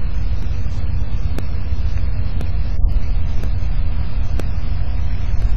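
Storm wind buffeting an outdoor microphone: a loud, steady low rumble. Faint sharp clicks come about once a second throughout.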